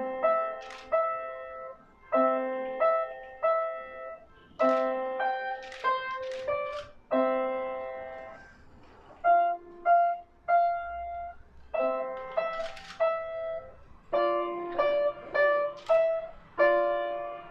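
Piano playing a simple tune in struck chords, each note ringing and fading before the next, in short phrases with brief pauses between them.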